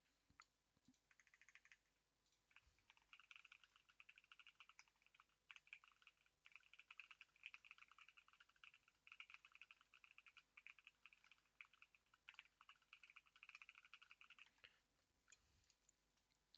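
Faint, rapid typing on a computer keyboard in runs of quick keystrokes with brief pauses, thinning out to a few strokes near the end.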